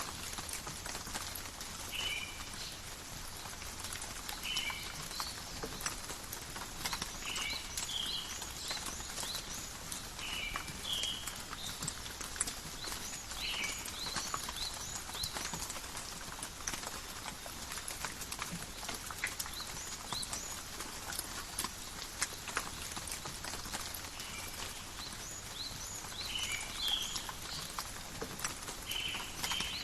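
Steady rain pattering in a forest, a dense patter of fine drop ticks. Over it, an animal gives a short two-part call every two to three seconds, falls silent through the middle, and resumes near the end.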